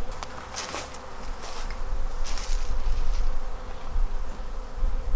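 Honeybees buzzing steadily around an open hive, over a low rumble, with a few brief rustles.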